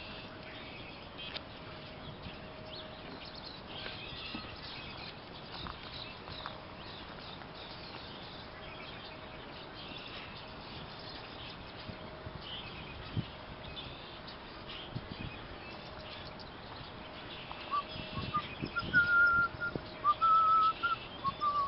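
Wild songbirds chirping faintly and often in the background. Near the end come a few louder, short, high whistled notes.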